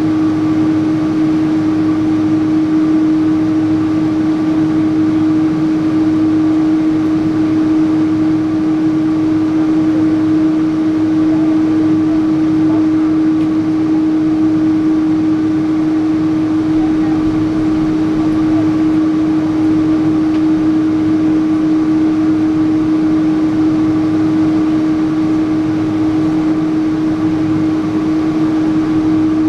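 Steady cabin noise inside a Japan Airlines Boeing 777-300 airliner: the jet's engines and air system running with an even hiss and a strong, unchanging hum.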